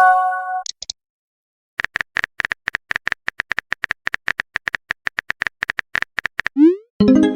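Phone chat sound effects: a short notification chime, then a few seconds of quick, irregular keyboard tap clicks as a message is typed. Near the end comes a quick rising swoosh as it is sent, followed at once by another chime.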